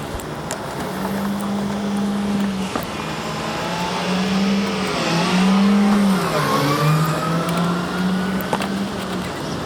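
A motor vehicle's engine running steadily; its pitch dips and then rises again about midway.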